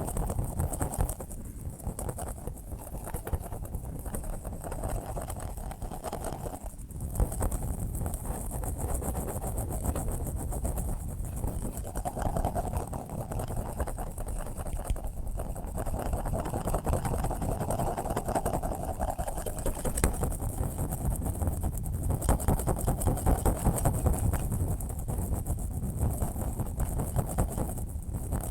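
A steady white-noise-style sleep sound, heaviest in the low end with a wavering mid band and a faint hiss on top, swelling and easing slightly in level without stopping.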